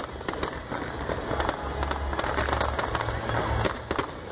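Fireworks display going off: many sharp bangs and crackles in quick, uneven succession.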